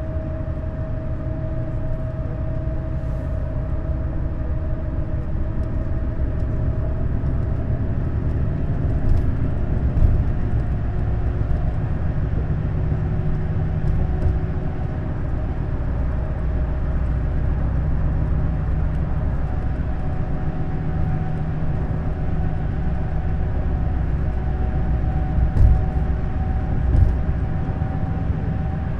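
Neoplan Skyliner N 1122/3C double-deck coach driving at steady speed: a low engine and road drone with a faint whine that rises slowly. Short thumps from the road come about ten seconds in and twice near the end.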